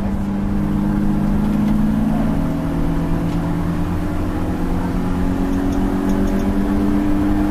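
Stock four-cylinder engine of a BMW E36 318is race car, heard from inside its stripped cabin, pulling hard with its pitch rising slowly through the gear, over road and tyre rumble.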